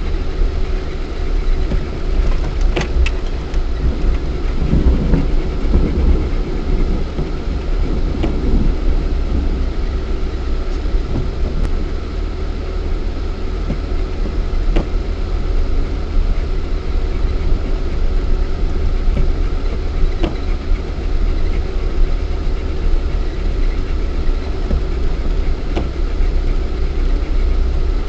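Lada Niva 1.7i's four-cylinder engine running with a steady low rumble, heard from inside the cabin while driving off-road. A few short knocks and clicks come through now and then.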